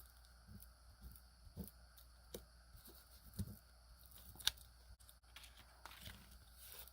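Faint, scattered rubs and small taps of a cloth rag wiping wet glue off a paper journal page.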